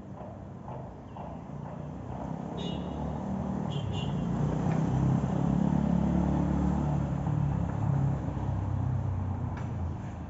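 A motor vehicle passing by: a low engine rumble swells to a peak about halfway through and fades toward the end. Two short high chirps sound a few seconds in.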